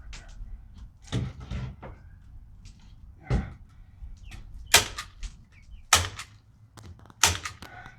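A series of sharp knocks and bangs at irregular intervals, about six in all, the loudest three in the second half, from work on fitting a rain cover over a chicken coop.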